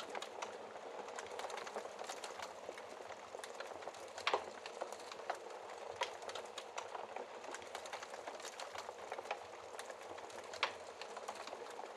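Wood fire burning in a fireplace: a steady hiss of flames with dense irregular crackling, and a few louder snaps of the wood, the sharpest about four seconds in.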